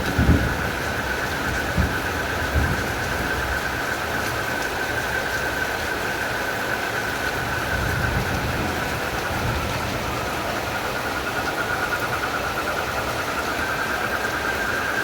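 Steady, fast-pulsing chorus of frogs and crickets over the even hiss of heavy rain, with a few low thumps in the first few seconds.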